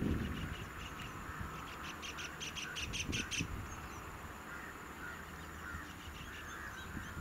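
Birds calling: a quick run of short, high chirps from about one to three seconds in, then softer wavering calls, over a steady low background rumble.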